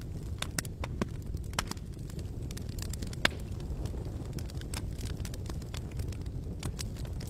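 Campfire burning: irregular sharp crackles and pops over a steady low rumble, with one louder pop about three seconds in.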